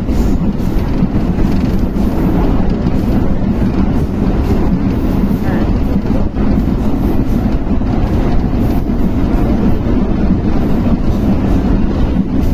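Loud, steady rumble of a moving vehicle, with voices mixed in.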